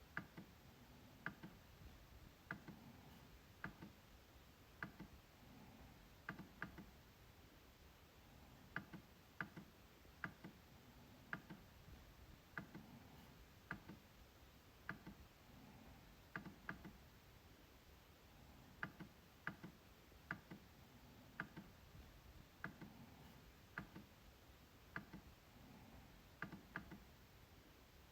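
MacBook trackpad clicking: short sharp clicks at irregular intervals, often two in quick succession like a double-click, each with a soft low thump beneath it.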